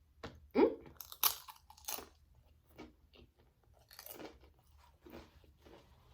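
A person chewing food close to the microphone. There are a few sharp crunches in the first two seconds, then quieter steady chewing.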